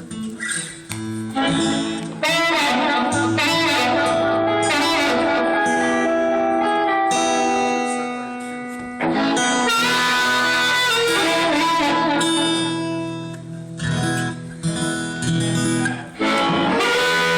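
Guitar playing a blues passage, with held notes and low bass notes, pausing briefly twice.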